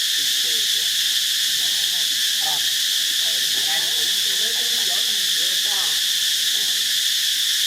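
Insects droning in a steady, unbroken high-pitched chorus, with faint wavering voices or calls underneath.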